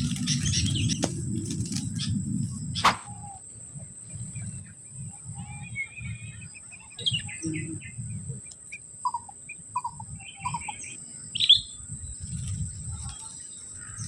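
Sooty-headed bulbuls (kutilang) calling: scattered short chirps, then three short falling notes in a row about nine to ten seconds in, and a loud chirp soon after. A sharp click comes about three seconds in, and a steady high whine runs underneath.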